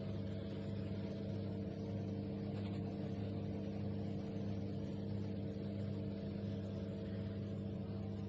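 A steady low hum made of several held tones, unchanging throughout.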